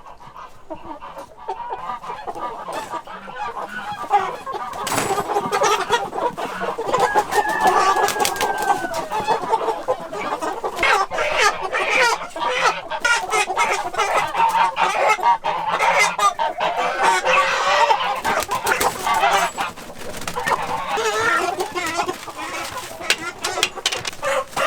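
A flock of Korean native chickens clucking and squawking continuously, with many short knocks and rustles among the calls. It is busiest through the middle and thins out a little near the end.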